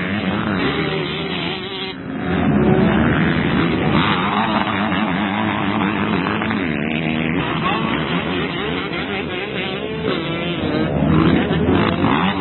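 Several motocross bikes racing, their engines revving up and down through the gears. The engine noise gets louder about two seconds in.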